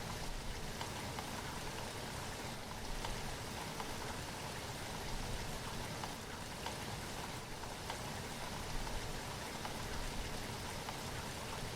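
Steady rainfall: an even hiss with scattered drops pattering on a surface.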